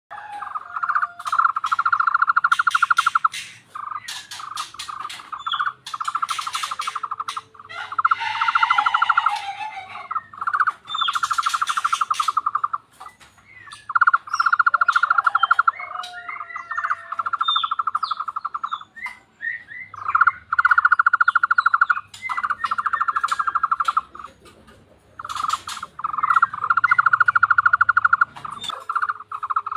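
Tohtor bird calling: a frog-like call made of fast, even pulses at one pitch, each run lasting two to three seconds and repeated about eight times, with short chirps in the gaps.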